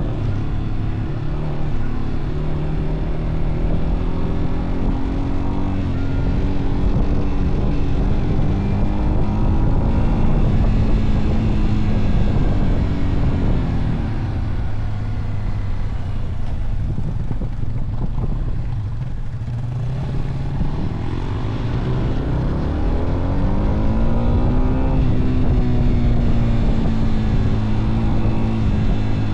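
Motorcycle engine running under way, its pitch holding, falling away around the middle, then rising again a few seconds later as the throttle opens.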